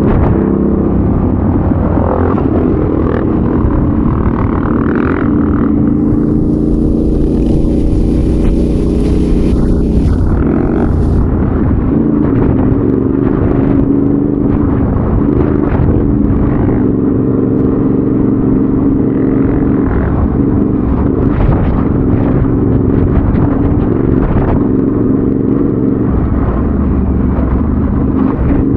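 Adventure motorcycle engine running at fairly steady revs, with short knocks scattered through and a stretch of hiss about six to ten seconds in.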